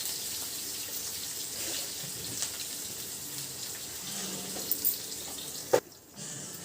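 Onions, green chillies and mint frying in oil in a pan, a steady sizzle, with one sharp knock a little before the end.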